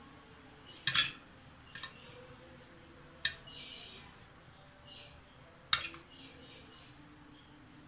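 Popcorn kernels popping one by one inside a covered pressure cooker, each pop a sharp tap against the metal. The pops are sparse: a loud pair about a second in, a smaller one shortly after, one a little past three seconds and a loud one near six seconds.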